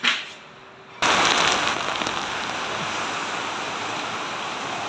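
Heavy rain pouring down: a dense, steady hiss that cuts in suddenly about a second in. Just before it, at the very start, comes a short sharp burst of noise.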